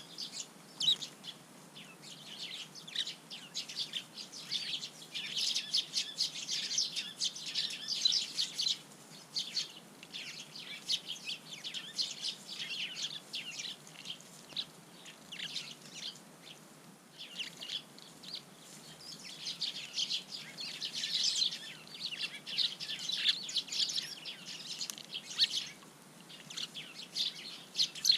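A flock of Eurasian tree sparrows chirping, many short chirps overlapping in quick, busy chatter with a few brief lulls.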